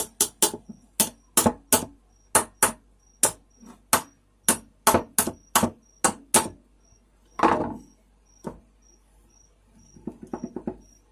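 A run of about twenty sharp clicking knocks, roughly three a second, from hand work on a box fan's parts just after a screw is tightened. A longer scraping sound and a single knock follow, then a quick patter of quieter clicks near the end.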